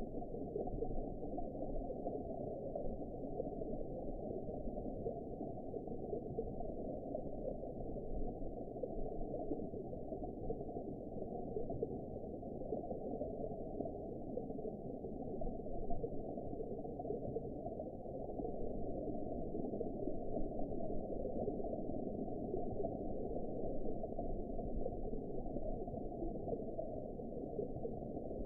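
Steady, heavily muffled underwater ambience: a dull, even wash of water noise with all the higher sound cut away.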